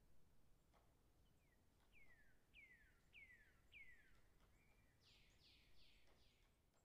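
Faint songbird singing: four clear whistles that each slide down in pitch, about two a second, then a brief steady note and a quick run of four broader down-sliding notes, over faint outdoor hiss.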